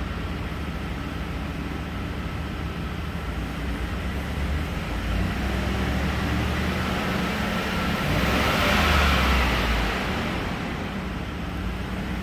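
2014 GMC Savana 2500's 6.0L V8 engine running steadily, swelling louder for a couple of seconds about eight seconds in.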